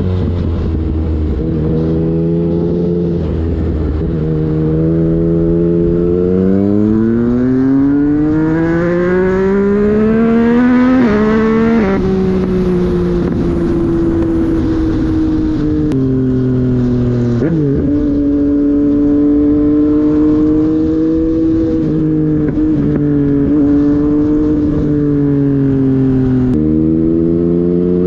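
Motorcycle engine being ridden hard through the gears: its pitch climbs for several seconds, drops sharply at each gear change, holds steady while cruising, then climbs again near the end.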